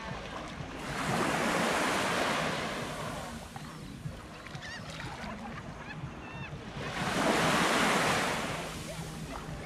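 Small sea waves breaking and washing up a sandy beach, swelling twice about six seconds apart over a steady low wash of surf.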